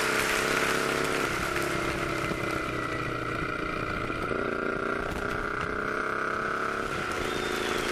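2008 Triumph Scrambler's 865 cc parallel-twin engine running under way, its note stepping up and down in pitch a few times.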